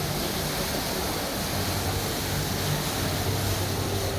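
Indoor waterfall with water falling and splashing steadily, a continuous even rush.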